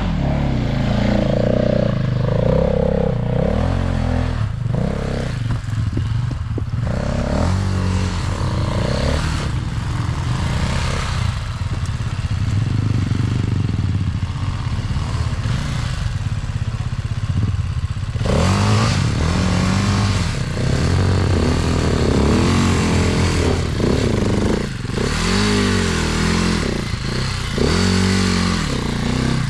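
Dirt bike engine revving up and down again and again, with knocks and clattering mixed in.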